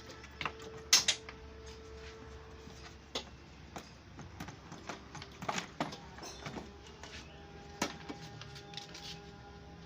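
Irregular metallic clinks and knocks of hand tools and body parts being handled while a crash-damaged car's front end is taken apart, over a steady low hum. The sharpest knock comes about a second in.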